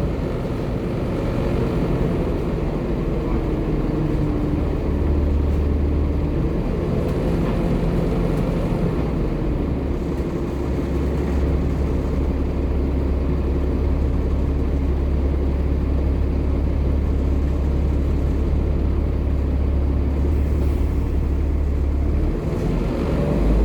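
Volvo B7TL double-decker bus's six-cylinder diesel engine running under way, its note shifting several times as it changes speed and rising near the end.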